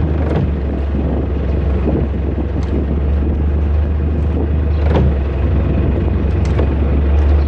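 Steady low drone of running machinery with a constant hum and an even rumble, broken by a few short sharp knocks.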